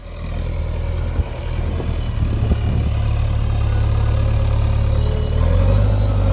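Heavy diesel engine of a backhoe loader or tractor running steadily, growing louder over the first second, with a sharp knock about a second in.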